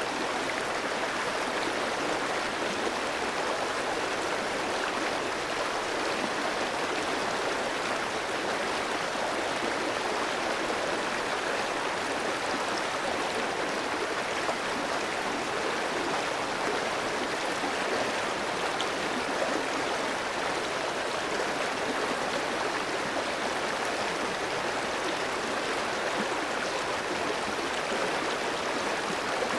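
Clear, shallow stream flowing over rocks: a steady rushing and babbling of water that keeps an even level.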